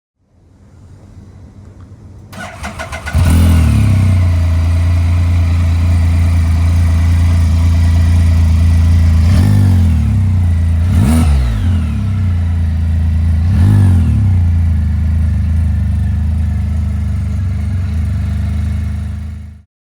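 Can-Am Spyder F3 three-cylinder engine through an RLS aftermarket exhaust, cranking briefly and firing about three seconds in. It settles into a loud, steady idle, blipped up and back down three times before cutting off near the end.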